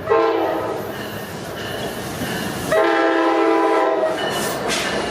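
Locomotive horn sounding a chord in two blasts, a short one at the start and a longer one of about a second and a half, over the rumble of a passing train.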